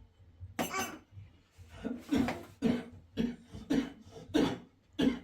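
A person coughing repeatedly, a run of about seven short coughs.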